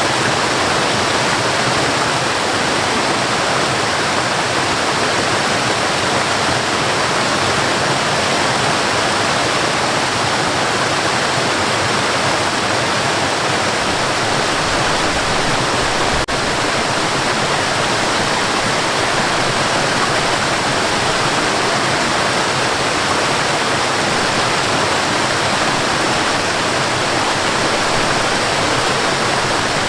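Waterfall: water falling and splashing in a steady, unchanging rush. A single faint click just past halfway.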